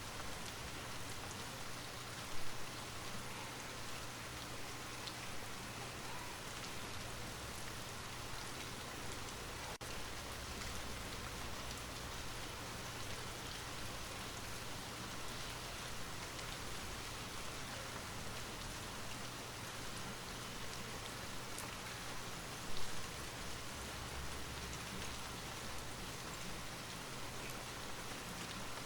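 Light rain falling steadily: an even hiss with scattered small drop ticks. There are two brief louder moments, about two seconds in and again about three-quarters of the way through.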